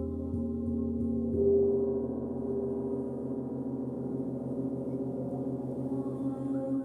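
Deep, ringing tones of a struck sound-healing instrument, tapped softly four or five times in the first second and a half, then left to sustain with a slow, even throb.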